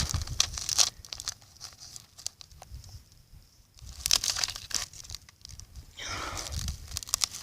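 Dry debris crunching and crinkling in three short spells of crackly clicks, with quiet gaps between.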